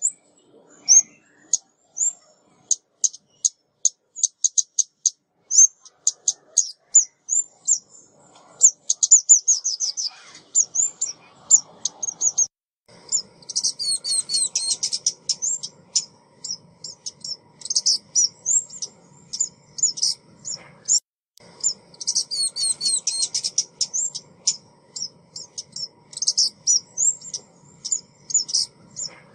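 Recorded call of a female ốc mít bird used as a trapping lure: a rapid, unbroken run of high, thin chirps and short trills, coming in dense bursts at times. A faint low rumble sits under the calls from about a third of the way in.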